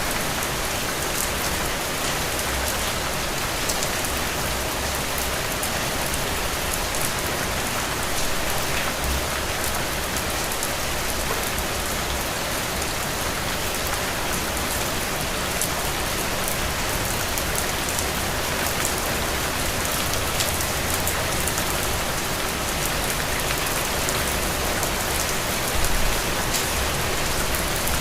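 Heavy rain falling steadily, with a dense patter of drops striking a surface.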